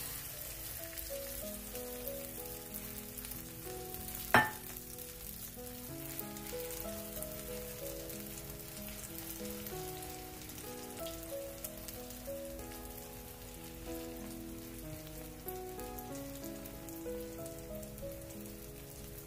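Egg and grated zucchini mixture frying in oil on low heat with a faint sizzle, under background music of slow stepping notes. A single sharp click about four seconds in.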